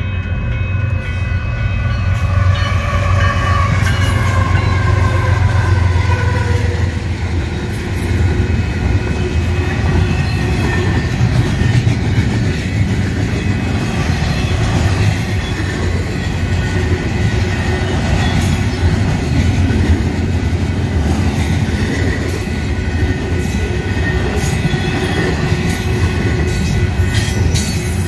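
A train passing close by. A heavy locomotive rumble dominates the first several seconds, then the cars roll past on the rails, a steady noise with scattered sharp clicks.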